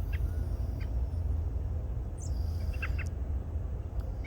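A few short, faint bird chirps over a steady low rumble, from birds feeding along a freshly dug ditch line.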